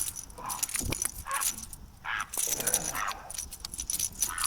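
Irregular light metallic jangling and clicking: the treble hooks and hardware of a Berkley Choppo topwater lure rattling while a just-landed smallmouth bass is handled.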